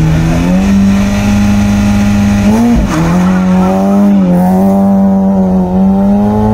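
Rally car engine held at high revs, then pulling away from the stage start. The pitch dips once and climbs back at a gear change about two and a half seconds in, then holds high as the car drives off.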